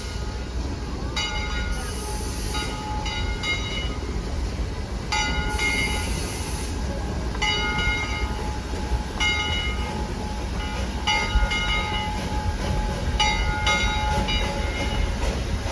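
Narrow-gauge steam train's bell ringing in repeated runs of strokes over the steady low rumble of the train.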